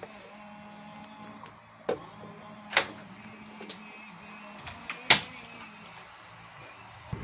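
A few sharp metallic clicks and clinks of tools and parts being handled while a motorcycle carburetor is refitted, the loudest about three and five seconds in, over a steady low hum.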